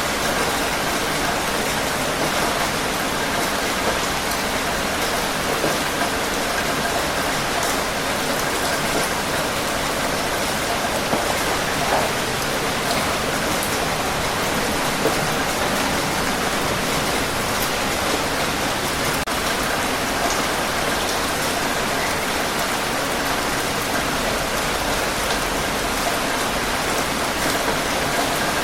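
Steady heavy rain falling on a surface, a dense even hiss with scattered individual drops ticking through it.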